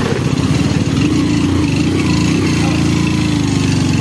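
Hero Splendor 110 cc single-cylinder four-stroke motorcycle engine running steadily while the bike is ridden along a rough dirt road.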